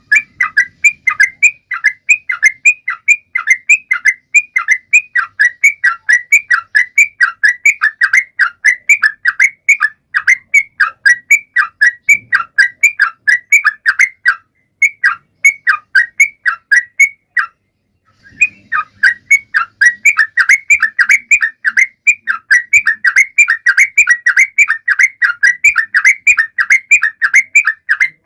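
Yellow-vented bulbul (trucukan) singing loudly and without pause: a rapid run of short, bubbling notes, about three or four a second, with one break of about a second partway through.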